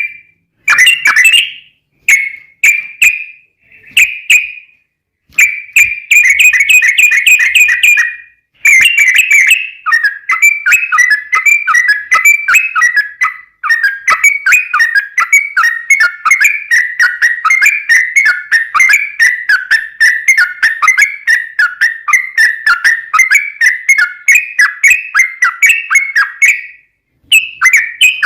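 Yellow-vented bulbul (trucukan) song: several short bursts of quick chattering notes, then a long unbroken run of rapid notes lasting about seventeen seconds, the long 'ropel' rattle of the bird in full song. It pauses briefly near the end and starts again.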